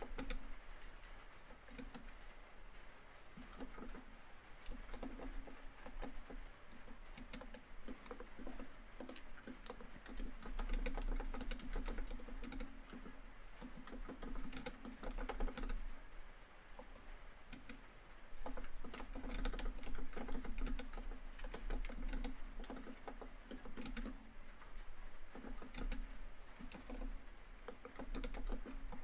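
Typing on a laptop keyboard in bursts of quick key clicks with short pauses between them, over a steady patter of rain on a tin roof.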